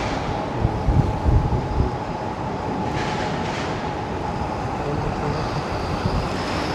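Strong wind on an outdoor microphone: a loud, steady rush with heavy low buffeting gusts in the first two seconds.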